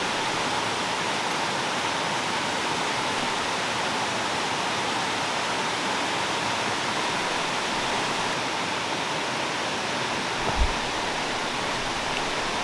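Steady rushing of a valley stream's flowing water, with one soft low thump near the end.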